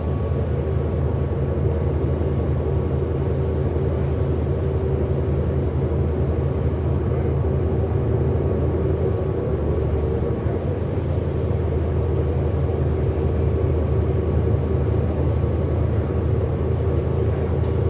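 Interior drive noise of a 2008 Orion VII Next Generation hybrid-electric city bus under way: a steady low rumble with a faint, constant whine above it that holds the same pitch throughout.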